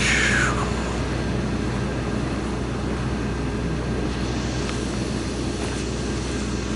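A vehicle engine running steadily at idle. It opens with a brief high squeak that falls in pitch.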